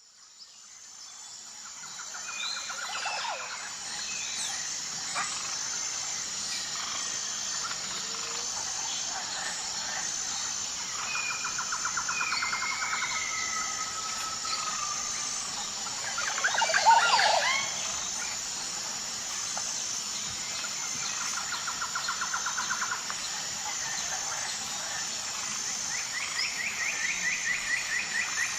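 Birds chirping and trilling over a steady high-pitched buzz, fading in over the first few seconds. A louder burst of calls comes about two-thirds of the way through.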